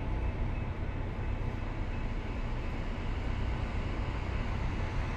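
Metra commuter train running past on the tracks: a steady rumble and rush of wheels on rail.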